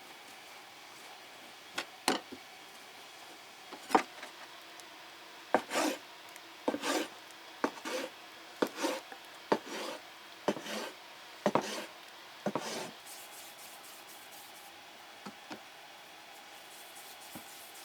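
A series of short scraping or rubbing strokes, about a dozen, spaced unevenly, each starting sharply and trailing off. The strokes stop about two-thirds of the way through, leaving only a few faint ticks.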